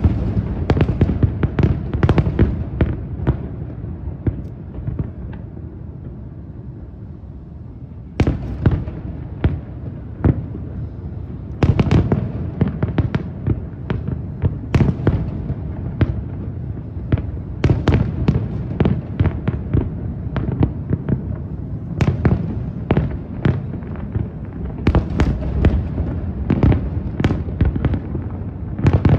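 Aerial fireworks exploding with sharp bangs over a continuous low rumble. The bangs thin out into a lull about four seconds in, then come back with a loud burst near eight seconds and build into dense rapid volleys through the rest.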